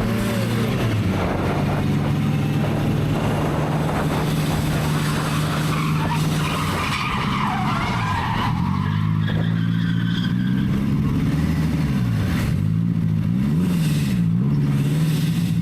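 Vehicle engine running steadily, then its pitch falls and rises several times in the second half as the throttle is eased off and opened again. A squealing sound sits over it for a few seconds in the middle.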